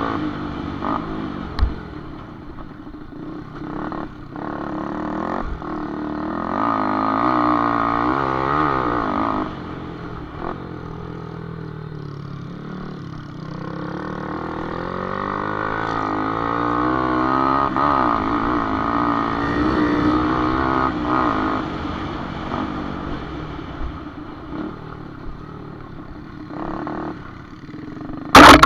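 Small motorcycle engines on a dirt motocross track, their pitch rising and falling again and again as they rev up and back off. A single sharp, very loud knock comes near the end.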